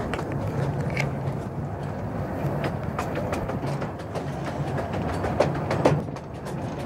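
Narrow-gauge train running along the track, heard from an open carriage: a steady rumble with a low hum, irregular wheel clicks and squeaks on the rails, and a louder knock about six seconds in.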